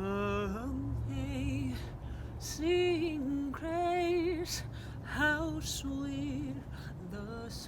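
A woman singing long, wavering notes in several separate phrases, over a steady low hum.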